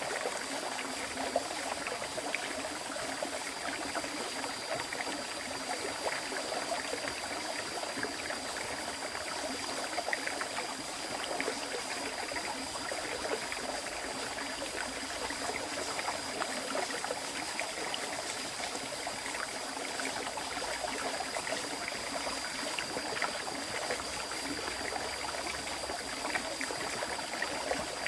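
Shallow river water flowing and splashing steadily over rocks, a continuous trickling rush. A faint thin high tone holds steady above it.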